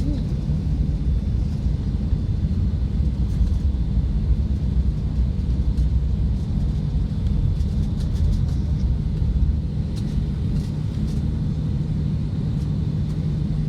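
Airliner cabin during the takeoff roll: the jet engines at takeoff power make a loud, steady low rumble with a constant hum, and a few faint rattles come through from the cabin partway through.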